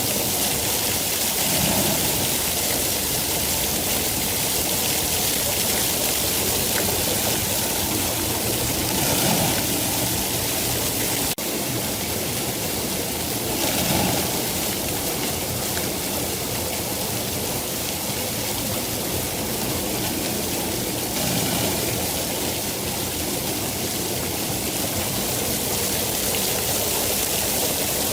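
Steady heavy rain falling, a continuous even hiss, with a momentary break in the sound about eleven seconds in.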